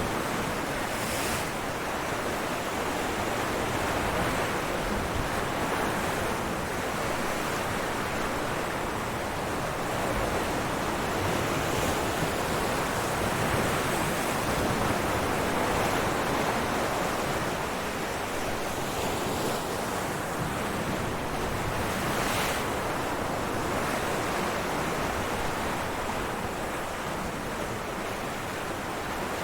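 Ocean waves breaking on rocks: a continuous wash of surf that swells and eases slowly, with brief hissing splashes about a second in and again near the end.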